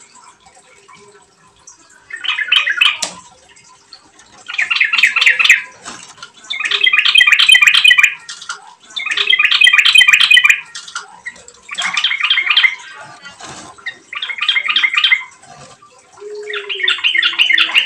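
Yellow-vented bulbul (trucukan) singing in bursts of rapid chattering notes: seven phrases, each about a second long, coming every two seconds or so.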